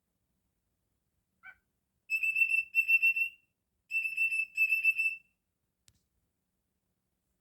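Cockatiel whistling: two pairs of short, wavering phrases held on the same high note, after a faint brief chirp.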